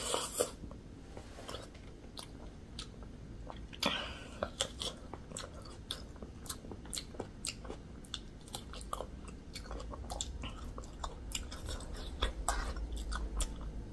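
Close-miked chewing of a juicy pork momo dumpling: a bite at the start, then a steady run of short wet mouth clicks and smacks, several a second.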